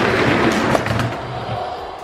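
Die-cast toy monster trucks rolling fast down a gravity race track, their plastic wheels rumbling and clattering on the track. The rumble fades off over the last second.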